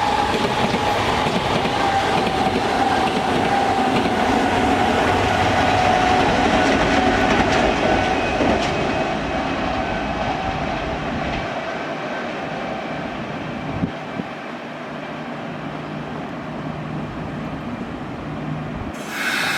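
Kintetsu electric train running through the station, with rail clatter and a motor whine that slowly falls in pitch. The train sound fades after about ten seconds, and a short bright sound comes near the end.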